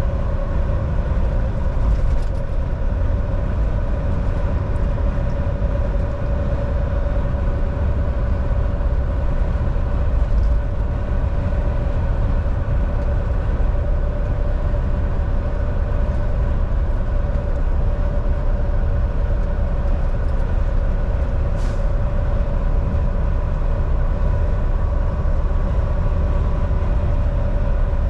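Volvo VNL 760 semi truck cruising at steady speed: a constant low engine drone with a steady hum over it and road rumble, unchanging throughout.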